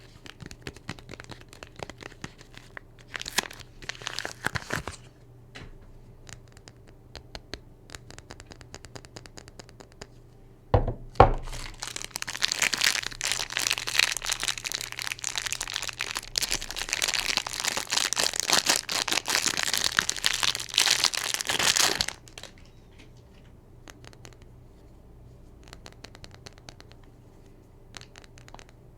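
A soap bar's wrapping being handled by hand: light crinkles, a soft knock, then about ten seconds of loud, continuous crinkling and tearing as the packaging is ripped open, stopping suddenly, followed by a few quieter crinkles.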